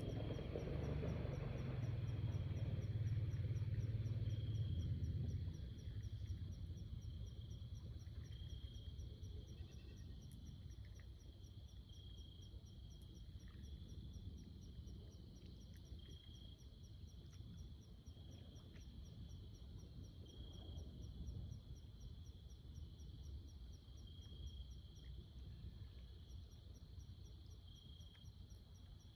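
Outdoor pond ambience: a faint, fast, even pulsing chorus of calling insects, with a short high call repeating about every four seconds. A low rumble covers the first five seconds or so, then drops away.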